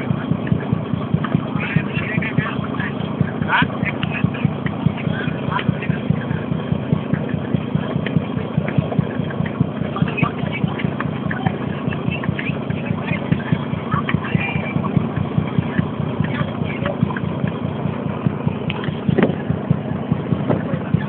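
A barge's engine running steadily at sea, with a rapid, even low pulse.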